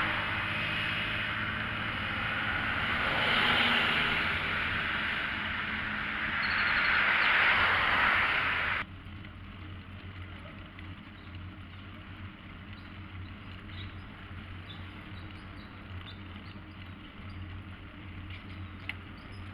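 Road traffic heard from a moving bicycle: the noise swells and fades as a few vehicles pass, then about halfway through it drops suddenly to a much quieter steady low hum with a few faint ticks.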